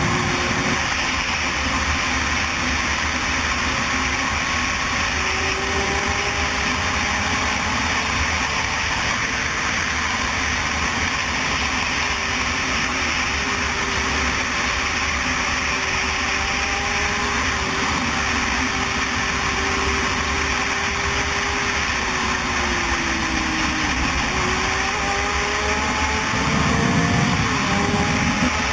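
Motorcycle engine running under load beneath a loud, steady rush of noise. Its pitch holds and climbs slowly, then drops sharply a few times, around the middle and near the end, as at gear changes.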